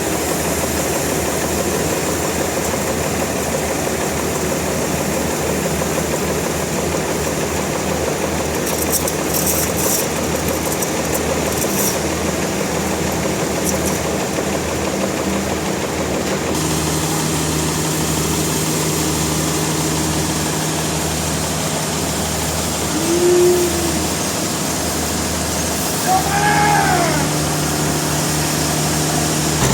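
Sawmill machinery engine running steadily with a low pulsing hum. About halfway through a second steady tone joins in, and near the end come two short rising-and-falling whistles.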